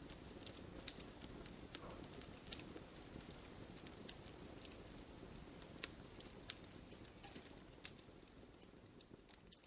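Campfire crackling: irregular sharp pops and snaps over a soft, steady low rush of burning, growing fainter near the end.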